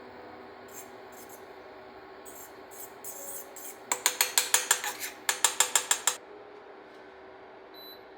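Kitchenware being handled: a few soft scrapes, then two quick runs of sharp light clinks, about six a second, a little past the middle. Faint background music plays underneath.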